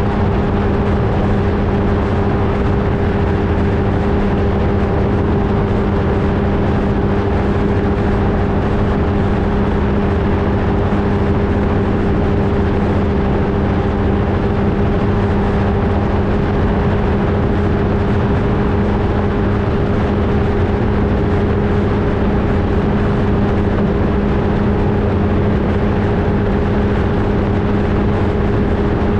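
Flightstar II ultralight's engine and propeller running at a steady setting, a constant-pitched drone that holds unchanged throughout, heard from a camera mounted on the aircraft.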